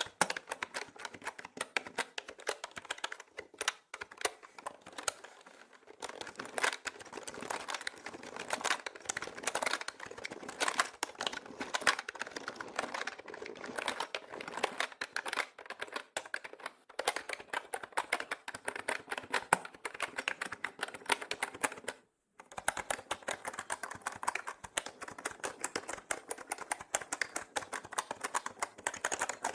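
Mechanical keyboard being typed on continuously: a dense stream of rapid key clicks, with a brief complete pause about three-quarters of the way through.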